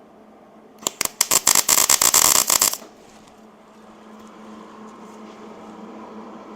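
Hobart Handler 130 wire-feed (MIG) welder striking an arc for about two seconds, starting about a second in: a short weld with a stuttering run of rapid pops. A steady low hum sits underneath.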